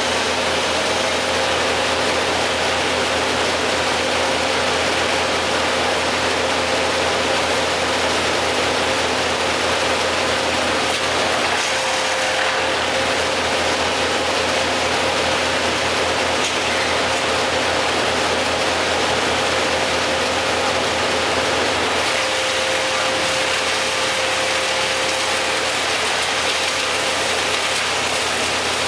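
An engine running steadily at a constant pitch, with a steady hum and a broad noise.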